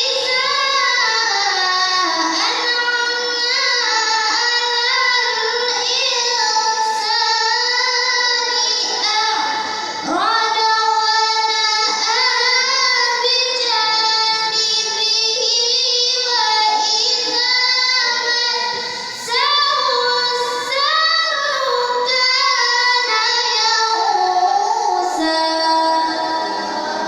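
A young girl recites the Quran in the melodic tilawah style. Her voice holds long, high notes with winding ornaments, and she takes short breaths between phrases about ten and nineteen seconds in.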